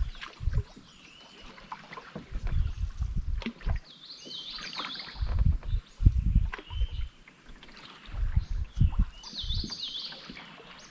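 Canoe paddling on a river: irregular paddle strokes and splashes with low thumps, while a songbird sings a short phrase of swooping high notes twice, about four and nine and a half seconds in.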